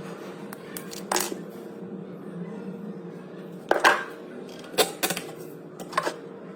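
About five sharp clicks and knocks at uneven intervals over a low steady hum, the loudest near the middle: hands and tools working on a wooden cabinet door and its hinge.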